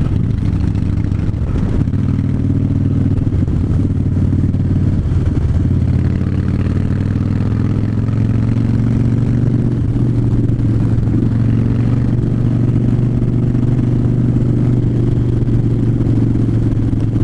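2009 Harley-Davidson Fat Bob's Twin Cam 96 V-twin running at a steady cruise, as picked up by a helmet camera while riding. Its pitch wavers a little in the first few seconds, then holds level.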